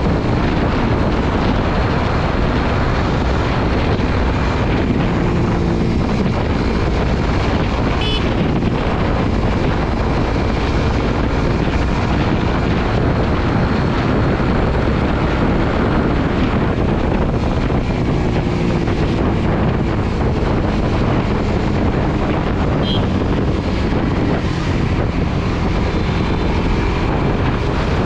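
Steady wind rush on the microphone of a riding motorcycle, with the Suzuki GSX-R150's single-cylinder four-stroke engine running underneath at a steady pace.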